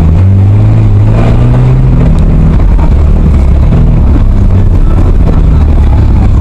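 A demolition derby car's engine, a 2000 Ford Taurus wagon with a V6, running loudly close to the microphone. Its pitch rises a little about a second in and settles back down a second later.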